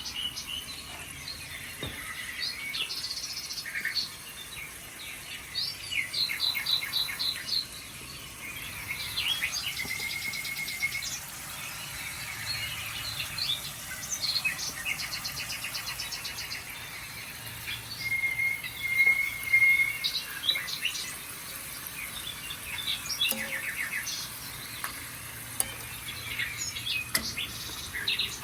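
Recorded birdsong playing from a TV: several birds chirping and trilling over one another, with rapid rattling trills and a few short whistled notes.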